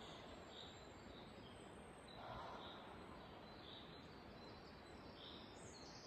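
Near silence in a forest, with faint, scattered high bird chirps over a soft steady hiss.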